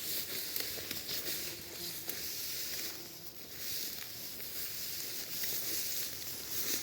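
Outdoor woodland ambience: soft rustling and small crackles, like steps on forest litter, over a steady high hiss.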